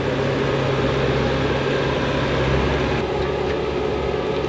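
Diesel engine of a heavy earthmoving machine running steadily under load while it scoops debris, heard from the operator's seat; the engine note shifts about halfway through.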